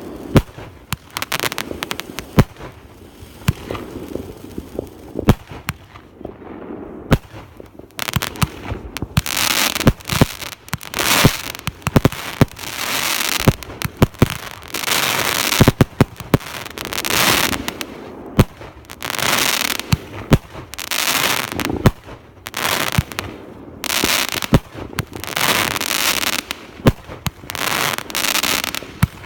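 Fireworks going off: scattered sharp bangs, then from about eight seconds in a quick run of loud crackling bursts, each half a second to a second long, with bangs between them.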